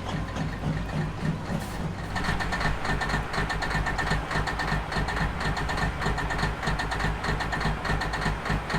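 Semi-truck diesel engine idling with a steady low rumble. About two seconds in, a rapid, high-pitched pulsing sound joins it and keeps going.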